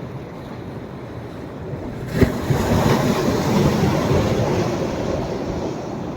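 Sea waves on a sandy beach at rising tide: a wave breaks suddenly about two seconds in and washes up the shore, then slowly fades, over a steady background of surf.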